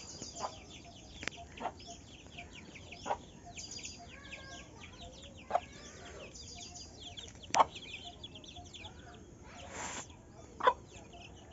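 Chickens clucking in short, sharp calls every second or two, over constant high chirping of small birds. A brief rustling hiss comes near the end.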